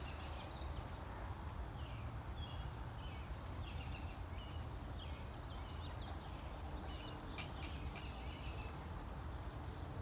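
Birds calling: many short, high chirps repeating every second or so over a steady low background noise, with a couple of brief clicks about seven and a half seconds in.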